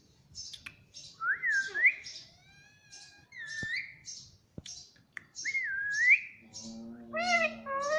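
Pet parrot whistling: three looping, rising-and-falling whistles over a run of short high chirps about twice a second, with a lower, voice-like call near the end.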